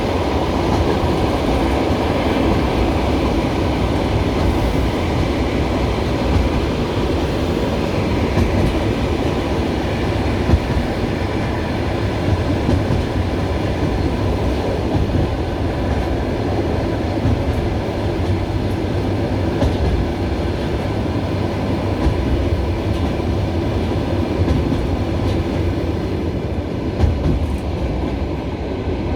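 Steady running noise of a passenger train heard from inside the carriage, with the wheels clacking over the rail joints and a few sharper knocks.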